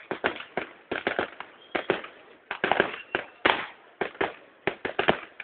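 Aerial fireworks going off in rapid, irregular succession: a string of sharp bangs, about four a second, each with a short echoing tail.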